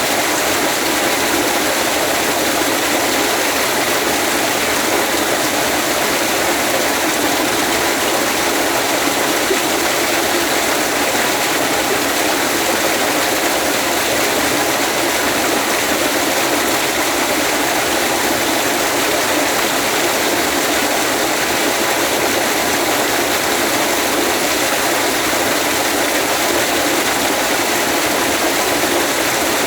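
Waterfall rushing: a steady, unbroken wash of falling water that stays at the same level throughout.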